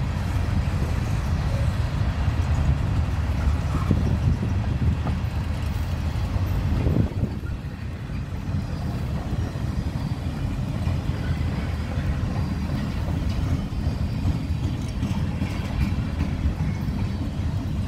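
Freight train cars rolling past on the track, hopper cars and then flatcars: a steady low rumble of wheels on rails that eases slightly about seven seconds in.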